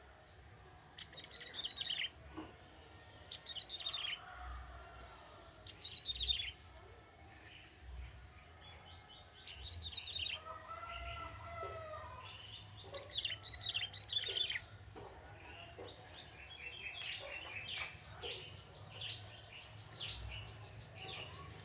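Young male ciblek tebu, a prinia, singing: short phrases of rapid high chirps repeated every few seconds, running into a longer, denser chirping phrase near the end.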